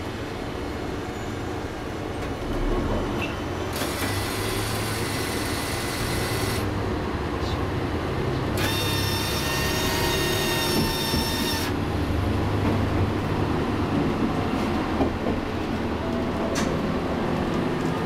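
Diesel railcar under way, heard from inside the front cab: a steady low engine drone with wheel-on-rail noise, and two spells of brighter hiss a few seconds long, the second carrying thin high ringing tones.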